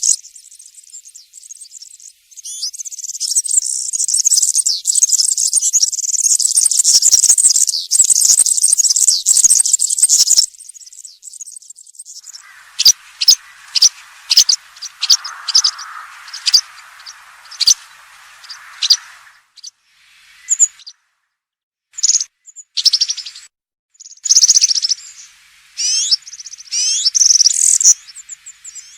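European serin singing its high, fast, jingling song in a long run lasting several seconds, then scattered short notes and shorter song phrases with brief gaps. A faint hiss lies under the middle part.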